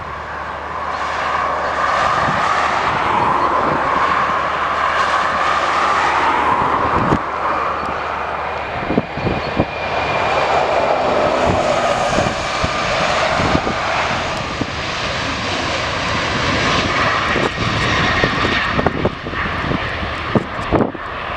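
Airliner engines running loud as a plane passes, a steady noise that swells over the first couple of seconds and holds.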